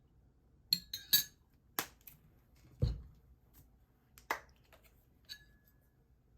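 Kitchenware clattering: a series of sharp clinks and knocks of dishes and utensils, with one duller thump about three seconds in and a short ring from a struck dish near the end.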